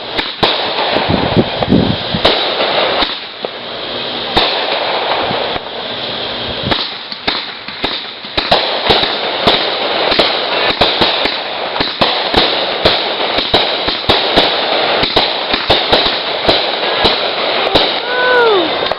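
Consumer 500-gram firework cake firing: a dense run of crackling and sharp pops going on almost without a break, with brief lulls around four and six seconds in, and a few whistles that rise and fall near the end.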